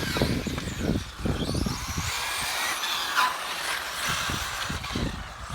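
1/10-scale radio-controlled touring cars racing, their motors whining and rising and falling in pitch, over a continuous low rumble.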